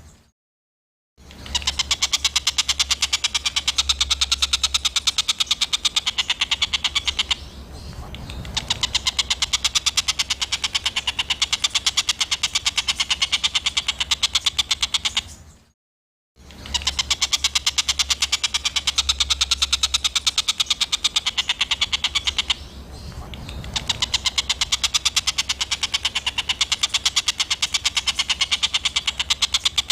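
Songbird's harsh, rapid rattling song: a fast buzzing string of notes held in long phrases, with a short silence near the start and another about halfway through. The same recording repeats after the gap, as a looped training call.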